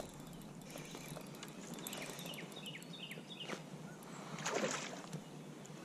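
A bird calling a quick run of short whistled notes, each falling in pitch, about three a second, over a faint steady outdoor background. About four and a half seconds in comes a short rush of noise, the loudest sound.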